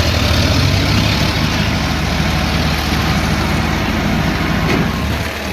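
Tractor diesel engine running steadily with a deep, low hum.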